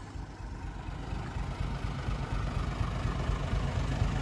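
Vehicle running on the road: a steady low engine and road rumble that grows louder in the second half.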